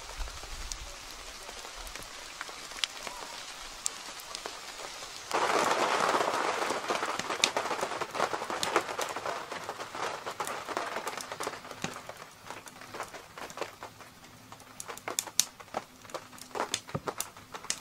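Rain falling on a canvas tent and the wet ground around it, a steady hiss dotted with sharp ticks of single drops. About five seconds in, the rain turns abruptly louder, then eases off gradually over the following seconds.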